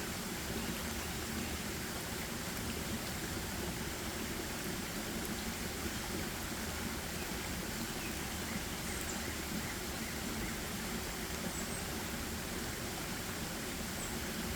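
Steady forest ambience: an even rushing noise, like running water or wind in the trees, with a few faint, short, high chirps in the second half.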